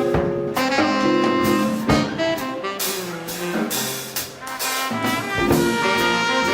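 Live swing band playing an instrumental number in 1940s style: saxophone and brass horns playing held notes over a drum kit, with sharp drum hits punctuating the phrases.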